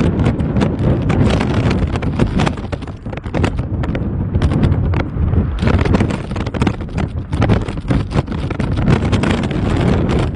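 Strong gusting wind buffeting the microphone in dense, irregular thuds, easing briefly about three to five seconds in.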